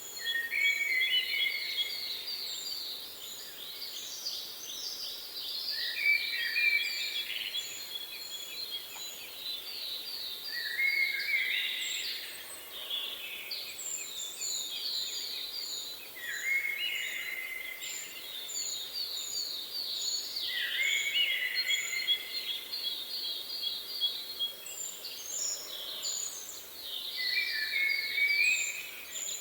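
Songbirds singing: a fast trilled song phrase with stepped falling notes comes every four to six seconds, while a second bird gives runs of short, very high chirps between them.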